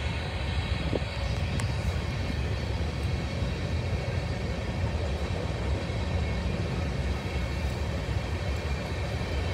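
Distant train rolling by: a steady low rumble.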